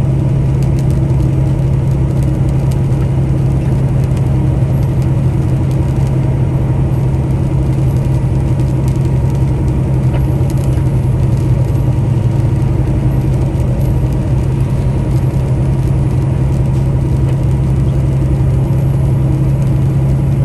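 Semi-truck's diesel engine droning steadily at cruising speed, heard from inside the cab, with road noise underneath.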